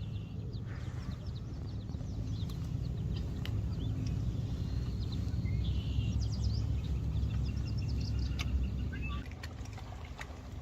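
Birds chirping repeatedly over a low, steady rumble, with a few light knocks.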